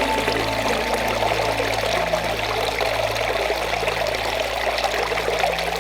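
Water running steadily in a small forest stream.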